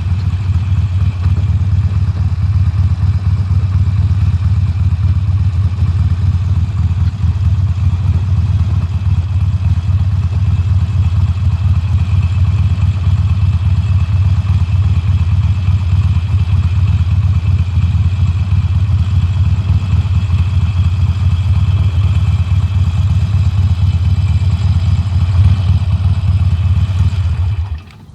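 2020 Harley-Davidson Sportster Forty-Eight's 1200 cc air-cooled V-twin on its stock exhaust, running steadily with a low, even rumble. The sound stops suddenly near the end.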